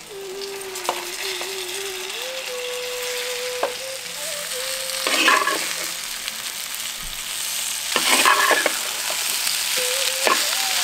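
Bitter gourd slices frying in spiced oil in a clay pot, sizzling steadily while a wooden spatula stirs and scrapes them around the pot. There are louder scrapes about five and eight seconds in.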